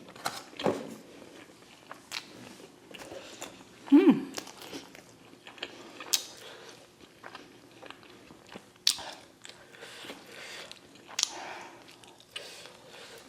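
Close-up chewing and biting of sauced boneless fried chicken, with scattered short crunches and wet mouth clicks. A brief vocal sound from the eater comes about four seconds in.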